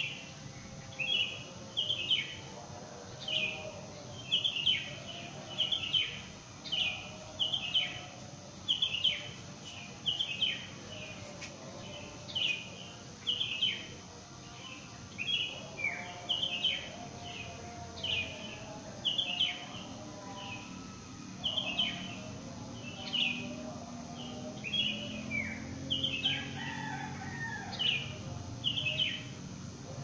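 Birds chirping: a short, sharp downward chirp repeated about once a second, sometimes doubled, with fainter, lower bird calls underneath.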